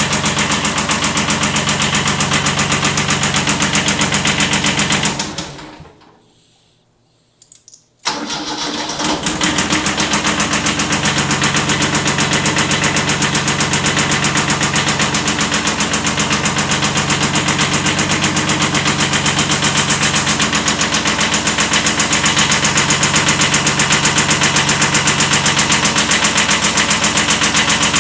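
Kubota B7100 compact tractor's small diesel engine running with a slight rod knock, shut off about five seconds in. After about two seconds of silence it is cranked and restarts, then runs steadily again.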